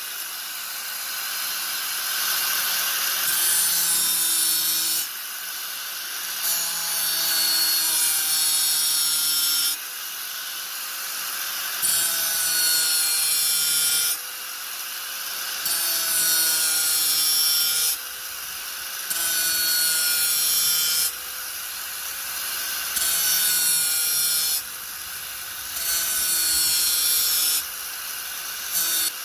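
Angle grinder running and cutting or grinding in repeated passes of two to three seconds each, about ten in all, with the motor running more quietly between them.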